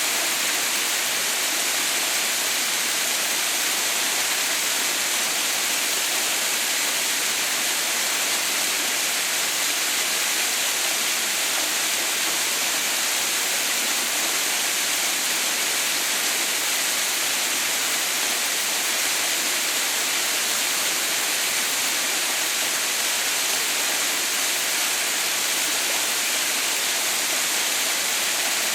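Waterfall: a steady rush of falling water, a hiss weighted toward the high pitches that does not change.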